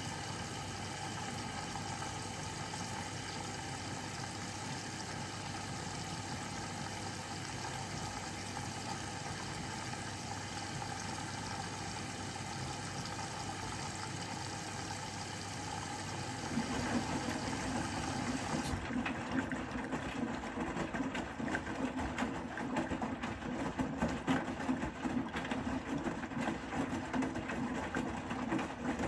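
Bosch Serie 4 WAK20260TR front-loading washing machine running: a steady motor hum with water in the drum. About two-thirds of the way in it turns louder and rougher. Near the end it cuts off suddenly.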